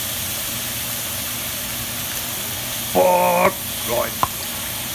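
Pork loin chops frying in oil in a cast iron skillet, with asparagus frying in a small pan: a steady sizzle. Just after four seconds there is a single sharp tap as black nylon tongs reach into the skillet.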